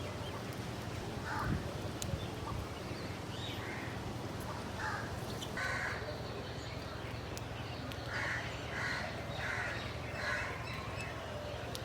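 Crows cawing: scattered single caws, then a quick run of four caws near the end, over a steady low hum.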